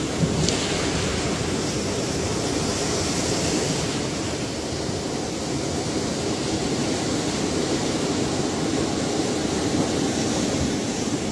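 Ocean surf: a steady, even rush of waves with no single break standing out.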